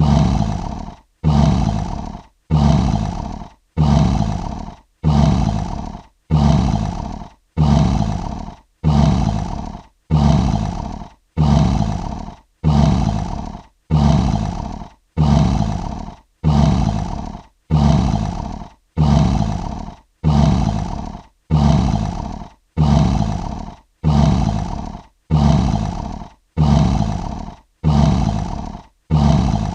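A lion roar sound effect looped: the same short roaring call repeats evenly about every 1.2 seconds, each one starting sharply and fading away before the next.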